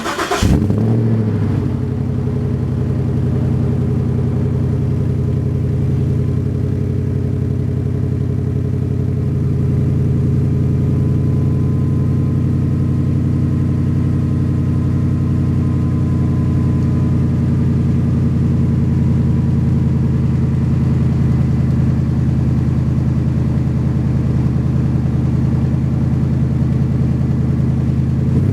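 2013 Ford F-250's 6.2-litre gasoline V8 through an aftermarket Magnaflow exhaust. It catches with a short sharp burst and brief flare right at the start, then idles steadily and deeply.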